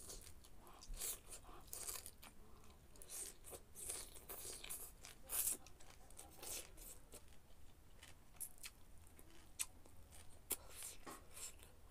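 A person chewing a mouthful of leafy greens close to the microphone: irregular crunching and crackling mouth sounds, several a second, the loudest about five seconds in.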